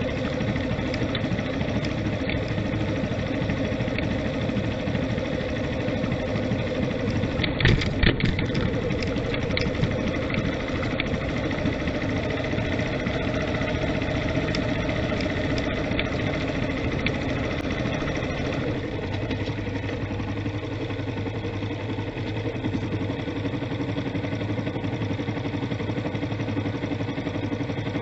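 Vehicle engine running steadily on the move, with a few sharp knocks about eight seconds in and the engine note dropping slightly a little past halfway.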